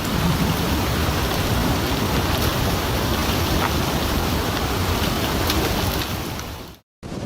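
River water rushing in a steady, loud surge after an ice dam break, with faint scattered ticks. It cuts off abruptly near the end.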